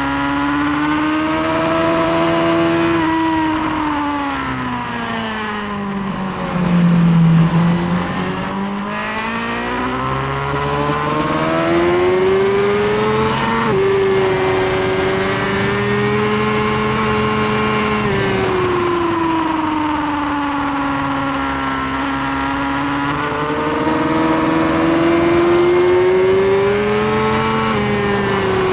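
2018 Suzuki GSX-R1000R's inline-four engine at racing speed, its pitch falling under braking to a low point about seven seconds in, then climbing and dipping again several times as the bike accelerates out of corners and slows into the next. A steady rush of wind noise runs under it.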